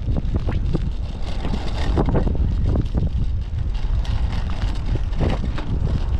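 Typhoon wind buffeting the microphone with a heavy, continuous low rumble, crossed by frequent short knocks and rattles.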